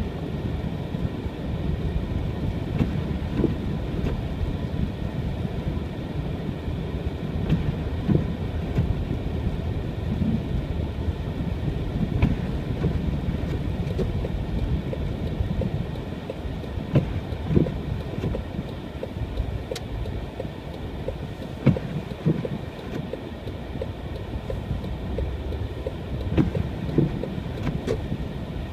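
Car driving on a snow-covered road: a steady low rumble of engine and tyres, with occasional thumps.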